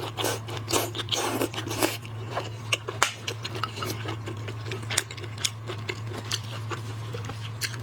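Shrimp shells crunching and crackling as they are bitten and picked apart, with chewing. The crackles are dense in the first two seconds and then thin out to scattered sharp clicks, over a steady low hum.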